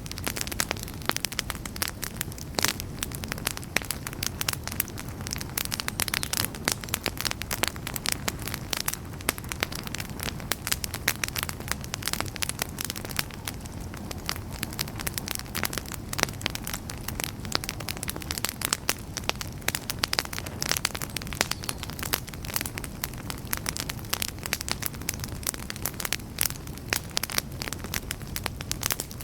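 Wood campfire burning with dense, irregular crackling and popping over a low steady rumble of flames.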